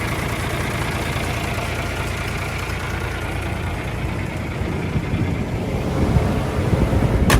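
Old John Deere tractor's engine idling steadily just after a jump-start, a low even rumble. A sharp click right at the end.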